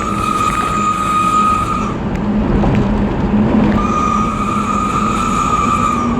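Engine running through a new whistle-type exhaust: a steady low drone with a high, steady whistle on top that sounds for about two seconds at the start, stops, and comes back from about four seconds in.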